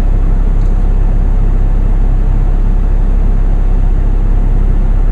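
Car heater and defrost blower fan running at a raised speed, a steady rush of air over the low hum of a cold diesel engine idling, heard from inside the cabin.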